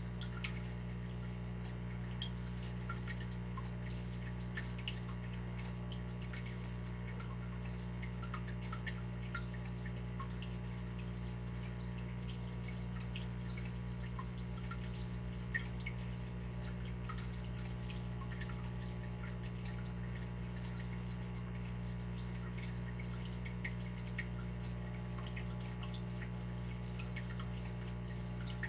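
Water dripping and trickling: small, irregular drips over a steady low rush of running water.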